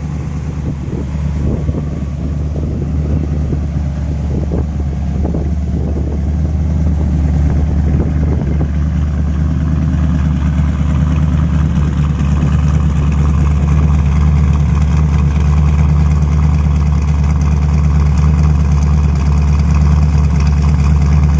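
1932 Ford truck engine running steadily, getting gradually louder.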